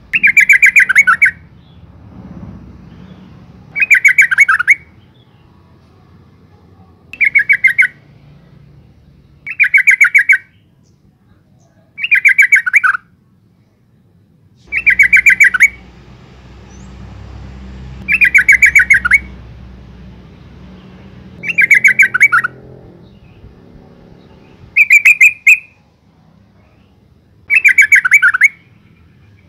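Yellow-vented bulbul giving a loud, bubbly chattering call about ten times, each call about a second long and a few seconds apart. The title gives it as a female calling to males.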